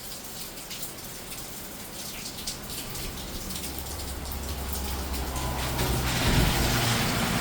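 Heavy tropical storm rain pouring down, a steady hiss with scattered drip splashes, growing louder. A low rumble joins about halfway through.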